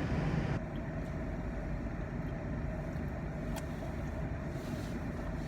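Steady low rumble of a car heard from inside the cabin, with a faint steady hum and a couple of small clicks.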